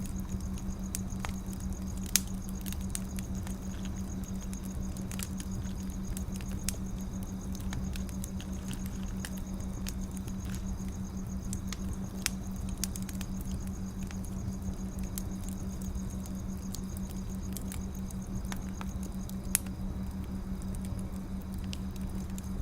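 Burning firewood crackling, with irregular small pops and a few louder snaps, over a steady low hum.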